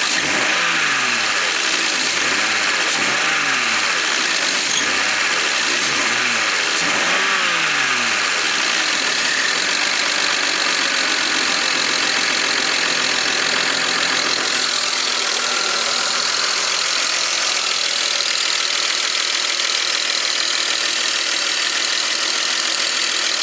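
2001 BMW X5 engine revved in about five quick throttle blips, pitch rising and falling each time, then settling to a steady idle. It carries a ticking that speeds up with the throttle, whose cause the owner cannot place (valves, lifters, rod bearing or a loose spark plug are his guesses).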